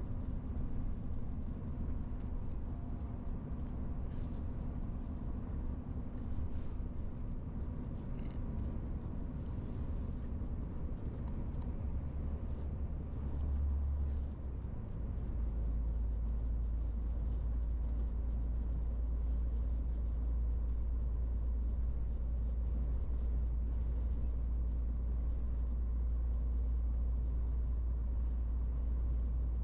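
MAN TGX 18.470 truck's diesel engine running steadily under way, with road noise. About halfway the engine note shifts, then holds a slightly louder, steady low drone.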